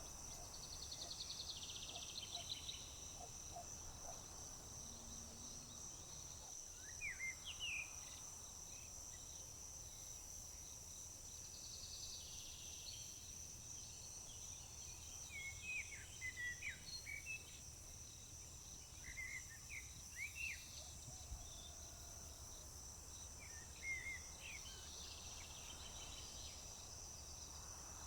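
Steady high-pitched chorus of crickets with birds calling over it: short chirps in little clusters at several points, and two buzzy trills, one about a second in and one about twelve seconds in. A low rumble sits underneath.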